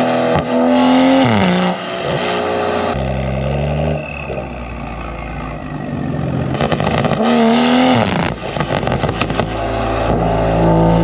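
BMW M340i's B58 turbocharged inline-six through free-flow downpipes and a valved catback exhaust, heard from the bumper near the tailpipes: the engine revs up and drops off several times as the car is driven hard. A little past the middle it crackles and pops on the overrun.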